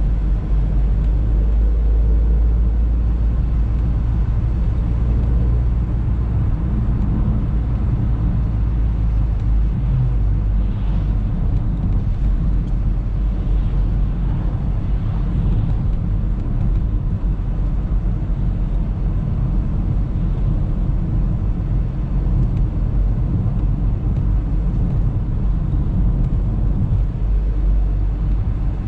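Audi A3 car driving with a steady low rumble of engine and road noise.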